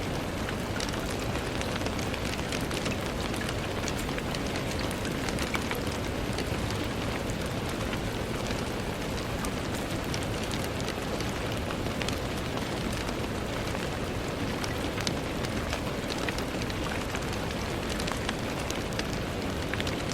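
Steady rain on a window: an even hiss with many small, scattered drop ticks at a constant level.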